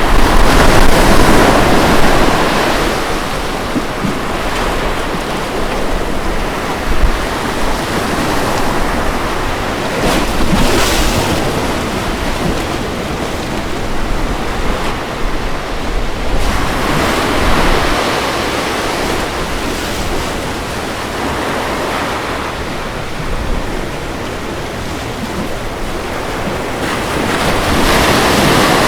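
Ocean waves breaking and washing on a beach, a steady rush of surf that swells with each wave, loudest at the start and again near the end, with some wind on the microphone.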